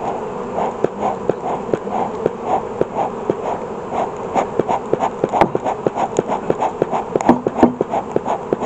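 Honeybees buzzing steadily around an open hive, with a beekeeper's smoker bellows pumped in quick, even puffs with a click each, about three a second. The smoker is low on fuel.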